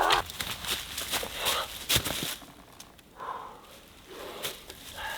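Irregular rustling and crackling, like footsteps moving through brush, over the first couple of seconds, then mostly quiet with a few faint, short sounds.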